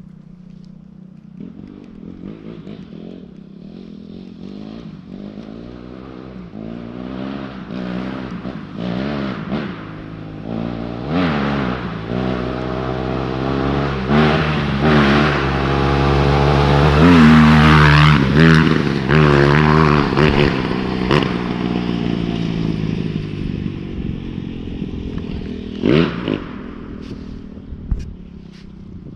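A Suzuki RM-Z dirt bike's engine ridden on a forest trail, growing louder as it comes closer, revving up and down over and over with the throttle and peaking about two-thirds of the way through before fading off. A single sharp clack sounds near the end.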